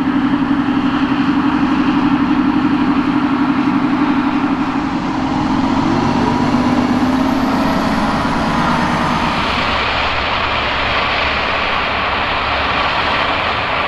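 Large tractor's diesel engine running under load, a steady hum whose pitch rises a little about six seconds in before a broader rushing noise takes over.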